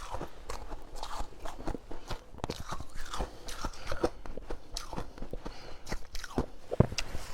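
Mouth biting and chewing powdery freezer frost: many irregular crisp crunches one after another.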